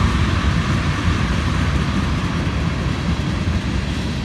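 Manifest freight train passing close by: a steady, loud rumble of wheels on rail. It eases off slightly near the end.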